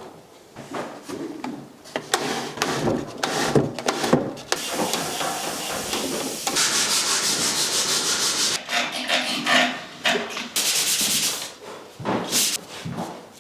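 Wood being sanded by hand: sandpaper rubbing in irregular strokes with a few knocks, then a stretch of fast, even strokes about halfway through.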